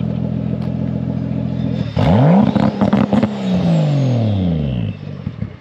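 A car engine idling, then about two seconds in it revs hard: the pitch sweeps up quickly, then winds down over about three seconds.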